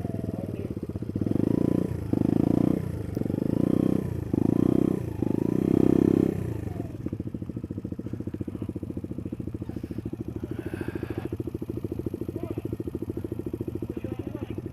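Small trail motorcycle's engine blipped up and down in about five short revs during the first seven seconds, then settling to a steady idle with an even beat.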